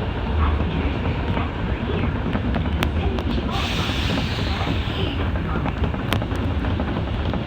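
Osaka Metro subway train running through a tunnel, with a steady rumble and scattered clicks from the wheels on the rails. A hiss rises about three and a half seconds in and fades out about a second and a half later.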